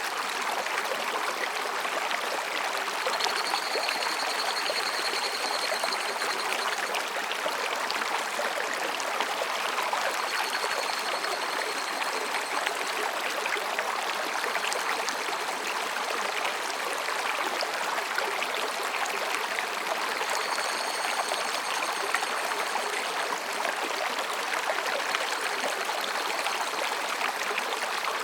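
A mountain stream flowing steadily between rocks, an even splashing of water. A higurashi (evening cicada) calls faintly in high, thin phrases a few seconds long, several times.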